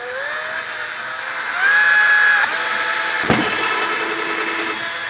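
Electric drill boring a hole in a lawn tractor's hood: the motor whine rises as it speeds up, steps higher about a second and a half in and holds steady, with one sharp knock midway.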